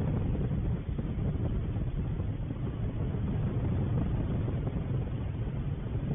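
Wind buffeting an outdoor microphone: a steady low rumble that flickers in strength, with no bird calls standing out.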